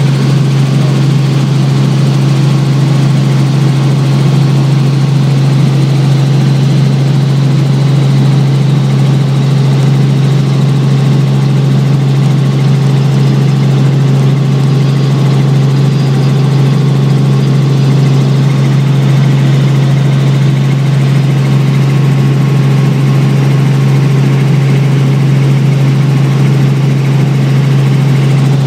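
Helicopter engine and rotors running steadily: a loud, unbroken low drone that holds one pitch throughout.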